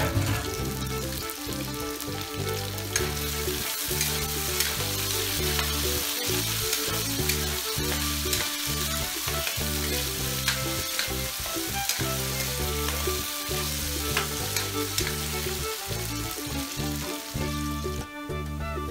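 Diced potatoes sizzling as they fry in hot oil in a metal wok, with a metal spatula stirring and scraping against the pan in scattered clicks. The sizzle drops away sharply about a second before the end.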